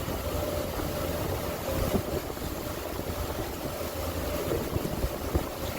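Ferry boat's motor running steadily under way, with wind buffeting the microphone and a couple of brief low thumps.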